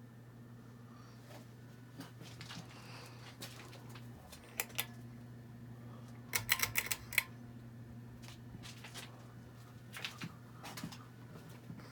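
Hampton Bay Huntington II ceiling fan motor humming steadily, with scattered sharp clicks and rattles over it, a quick cluster of them loudest about six to seven seconds in.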